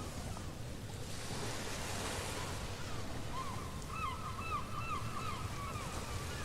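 Ocean surf washing steadily with wind noise. From about halfway, a quick run of short, repeated, curving bird calls sounds over it.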